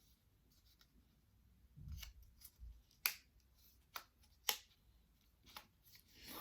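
Plastic tiles of a Magic folding puzzle clicking against each other as they are folded and flipped by hand: a few soft low knocks, then three sharp clicks about half a second to a second apart.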